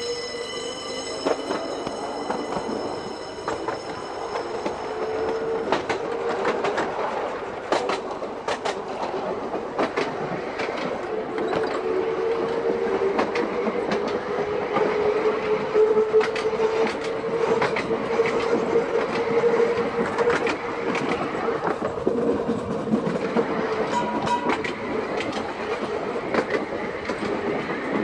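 Seaton Tramway narrow-gauge electric tram running along its track, its wheels clicking over rail joints. A high whine sounds for the first few seconds, and a wavering mid-pitched tone runs through the middle.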